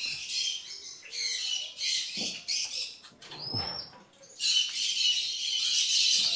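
A group of lutino opaline lovebirds chattering with shrill, rapid chirps, in bursts at first and then unbroken over the second half.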